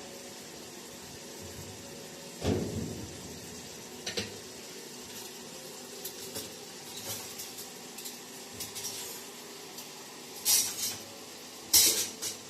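A few knocks and clinks of hard objects being handled over a steady hiss. The loudest come about two and a half seconds in and in a cluster near the end, with lighter ticks between.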